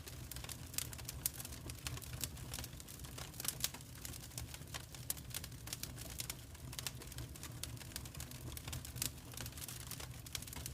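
Wood fire crackling in a fireplace: a dense, irregular run of small sharp pops and snaps over a steady low rumble of the flames.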